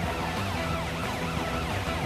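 Cartoon emergency-vehicle siren wailing in a fast up-and-down yelp, about four rises and falls a second, over background music.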